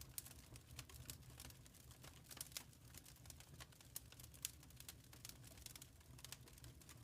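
Wood fire crackling quietly: irregular sharp pops and snaps, several a second, over a low steady rumble.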